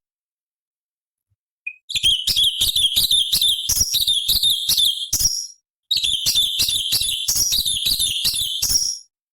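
Cucak cungkok, a leafbird, singing. After a silence, one short call, then two runs of rapid, sharp repeated notes, each about three seconds long, with a short break between.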